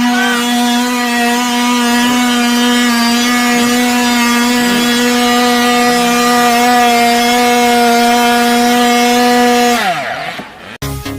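Dirt bike engine held at steady high revs for nearly ten seconds. The revs then drop steeply and the engine sound cuts out. Electronic dance music starts right at the end.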